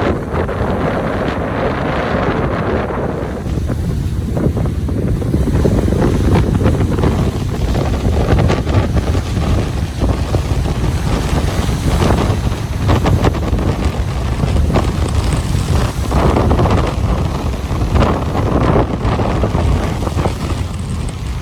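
Ocean surf breaking and washing ashore in steady, swelling waves, with wind buffeting the microphone in a low rumble.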